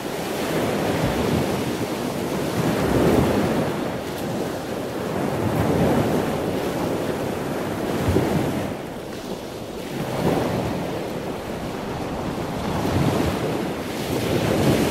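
Water rushing and splashing in surges every few seconds as a killer whale swims fast through a pool, churning up whitewater.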